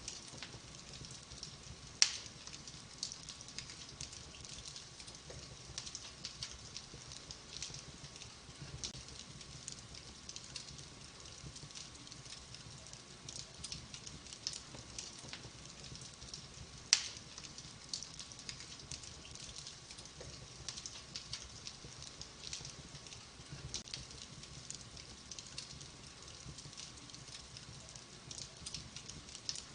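Wood fire in a fireplace crackling, a steady run of small crackles with two sharp, louder pops, one about two seconds in and one about seventeen seconds in.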